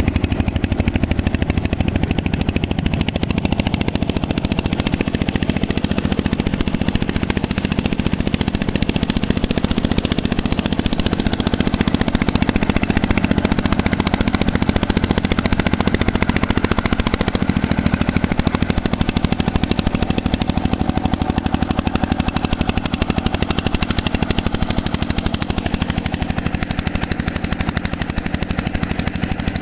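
Boat engine running steadily with a rapid chugging beat.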